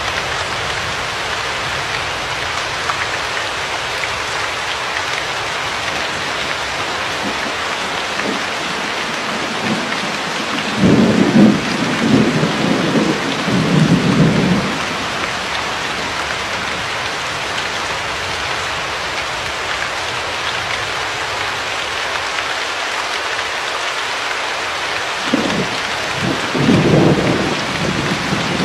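Steady rain hiss with two rolls of thunder: one rumbling for several seconds starting about eleven seconds in, another starting near the end.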